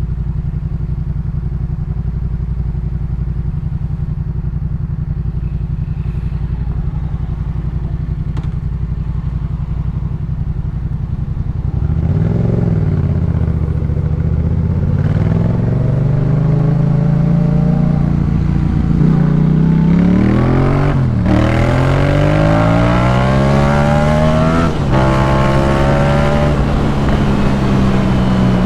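Yamaha MT-07 parallel-twin with a Jeskap K4 full aftermarket exhaust, holding a low, steady engine note at first. About halfway through it accelerates, the pitch rising and dropping sharply at several gear changes, then settles to a steadier note near the end.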